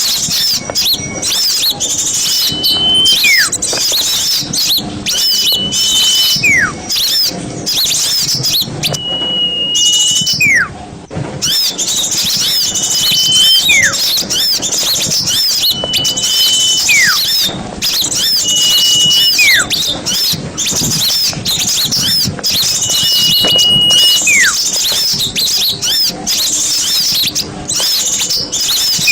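Recorded small songbirds singing: a dense, fast chatter of high trills and chirps, cut through every few seconds by a clear whistle that is held on one note and then swoops sharply down.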